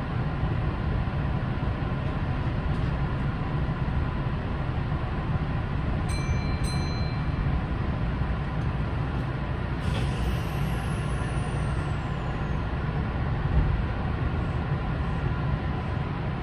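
Kintetsu 9020 series electric train standing with its doors shut, its onboard equipment giving a steady low rumble. Two short electronic beeps come about six seconds in. A click about ten seconds in is followed by a faint high whistle that falls in pitch. The train begins to creep forward at the very end.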